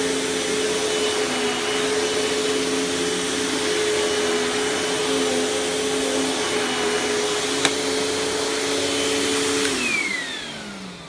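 Panasonic MC-UG589 upright vacuum's 12 amp motor running steadily with a constant whine and airflow rush, with one sharp click partway through. Near the end it is switched off and its pitch falls as the motor winds down.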